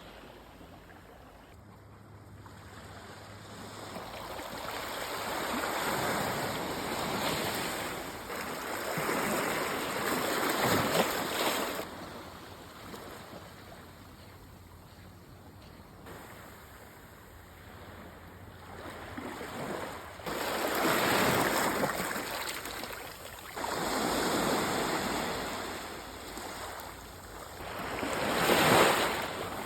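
Sea waves breaking and washing up a beach, coming in about five swelling surges that each rise and fade over a few seconds, the loudest near the end.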